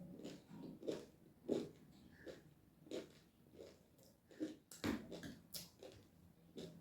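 Close-miked mouth sounds of someone chewing spicy Sadeko instant noodles: faint wet chewing and lip smacks, a little over one a second, with a sharper smack about five seconds in.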